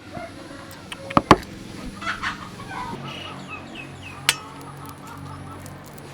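Birds calling, with short falling chirps, over a few sharp knocks and a steady low hum.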